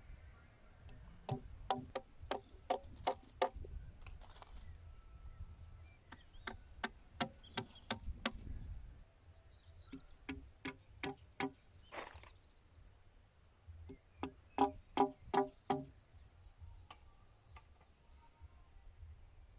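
Hammer driving nails into fence timber: four runs of quick, ringing blows, about four a second, with pauses between the runs.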